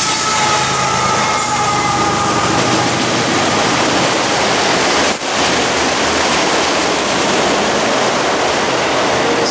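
Freight train of autorack cars passing close at speed: a loud, steady rush of steel wheels on rail. A mid-train CSX diesel locomotive adds steady tones in the first couple of seconds as it goes by, and there is a single sharp clank about five seconds in.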